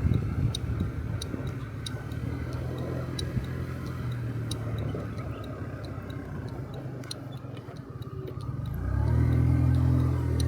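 Honda Dio Cesta 50cc scooter engine running at low speed, over a light, regular ticking about three times every two seconds. About nine seconds in the ticking stops and the engine revs up as the scooter pulls away.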